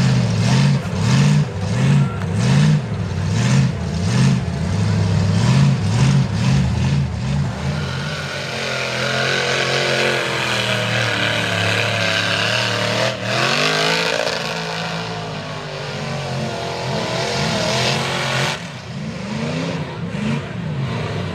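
Mega truck engine revved in quick throttle bursts, about two a second, then held at high revs for about ten seconds with one brief dip in the middle, before dropping back to lower throttle near the end.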